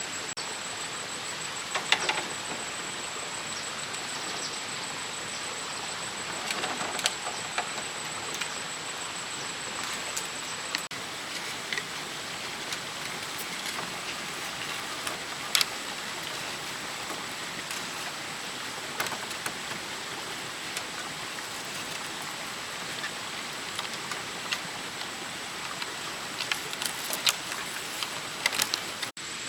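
Steady hiss like rain or running water, with a constant thin high tone. Scattered sharp knocks and taps sound over it, the sharpest about two seconds in and midway, with a cluster of them near the end.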